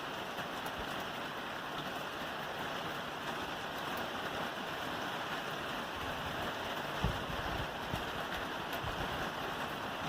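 Steady rain falling on a roof, an even hiss of drops. Two short low thuds come about seven and eight seconds in.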